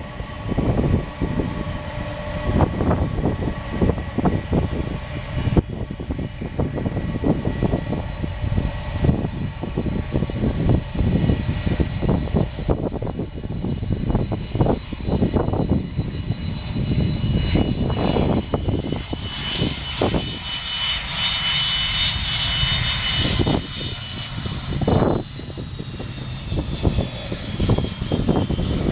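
Jet engines of a Boeing 747-400 running with a continuous low rumble. A high engine whine swells about two-thirds of the way through, then slowly falls in pitch as the jet goes past.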